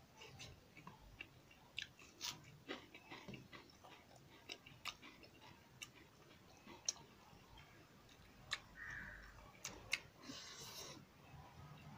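A person chewing and smacking his lips while eating rice and chicken curry by hand: scattered wet mouth clicks and smacks, with a short hiss about ten seconds in.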